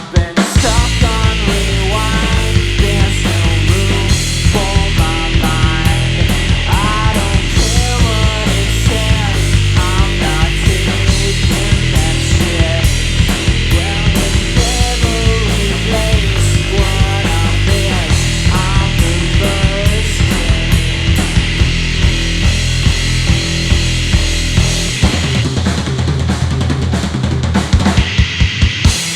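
Live rock power trio playing loud: an electric guitar lead with bent, wavering notes over bass and a drum kit. About 25 seconds in, the guitar and bass drop out and the drums carry on alone.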